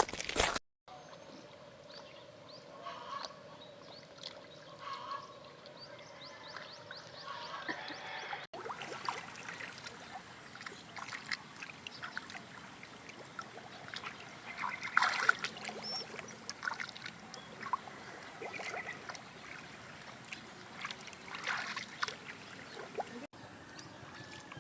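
Outdoor rural ambience: a faint steady hiss with scattered short calls and knocks, changing abruptly at edits about one, eight and a half, and twenty-three seconds in.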